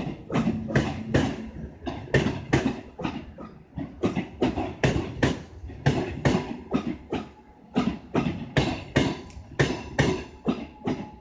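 Lastochka (Siemens Desiro RUS) electric multiple unit rolling slowly through a station, its wheels clacking over rail joints and points in a run of sharp knocks, about three a second, over a faint steady tone.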